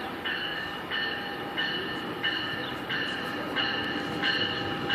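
GO Transit bilevel passenger train rolling into the station under braking. A high squeal pulses on and off about every two-thirds of a second over the rumble of the cars.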